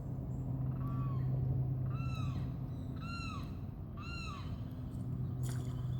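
A bird calling four times, about a second apart, each call rising and falling in pitch, the first one fainter. A steady low hum runs underneath.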